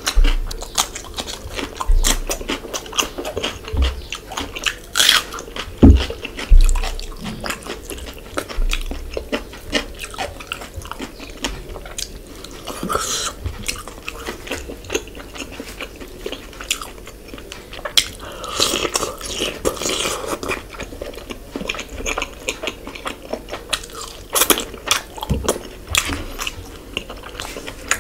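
Close-miked eating sounds of fish curry being eaten by hand: biting and chewing with many small wet clicks all through, and a few low thumps about six seconds in.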